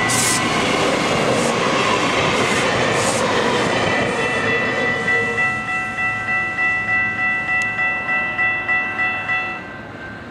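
Electric commuter train passing close by with a rush of wheel and rail noise that fades as it pulls away. A level-crossing warning bell rings steadily about twice a second throughout and stops shortly before the end.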